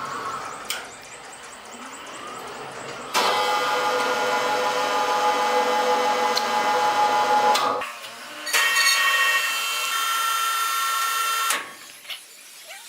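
Sawmill saw cutting wood: two loud, steady, whining cuts. The first starts about three seconds in and lasts about four and a half seconds; after a short break the second runs about three seconds and stops sharply.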